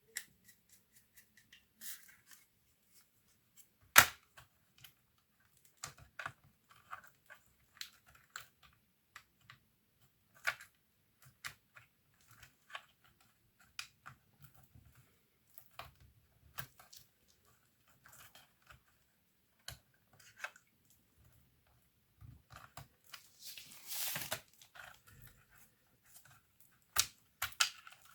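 Small plastic and metal clicks and taps from a laptop being handled and worked on, scattered and irregular. There is a louder sharp click about four seconds in and a brief scraping rustle near the end.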